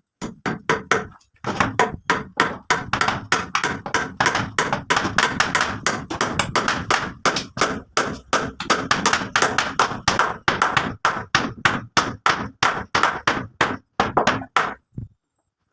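Rapid repeated blows of a hand tool on wood or a similar solid material, about three strikes a second, with a short break about a second in, stopping shortly before the end.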